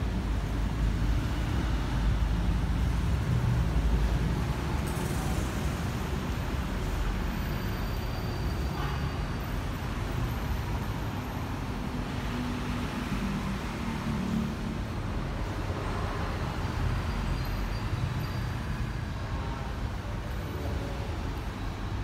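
Diesel engine of a Hyundai 15-tonne three-axle dump truck running with a low rumble, a little louder for the first four seconds and then steady.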